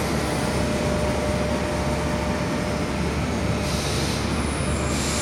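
TER Alsace passenger coaches rolling slowly past as the train pulls into the station: a steady rumble of wheels on the rails, with a faint thin whine in the first half and two short hisses about four and five seconds in.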